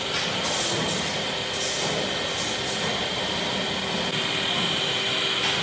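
Tyre factory machinery running with a steady hum and a constant high whine, broken by several short hisses.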